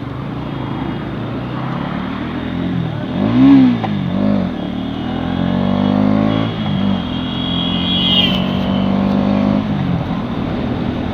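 Bajaj Pulsar NS200's single-cylinder engine pulling away and revving. The pitch rises and falls a few times, with the loudest rev about three and a half seconds in, then climbs steadily as the bike accelerates, holds, and eases off near the end.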